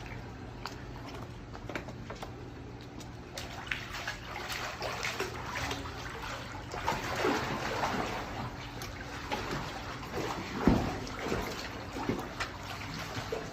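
Water splashing and sloshing as alligators feed, with irregular splashes throughout and a sharper, louder splash near the end.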